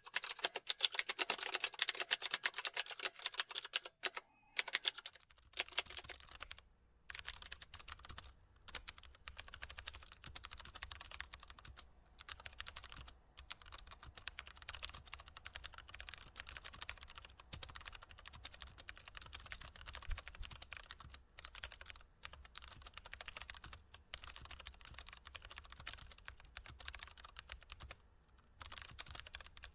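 Computer keyboard typing: a fast, steady run of key clicks. Louder and brighter for the first five seconds or so, then quieter over a low hum, with a few brief pauses between bursts of keystrokes.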